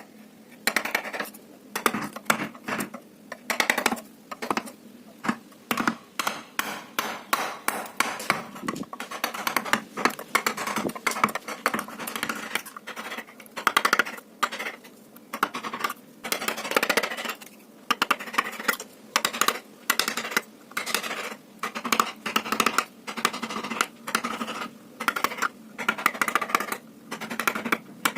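Hand carving chisel being struck with a mallet into teak wood: quick, irregular taps, several a second, broken by short pauses.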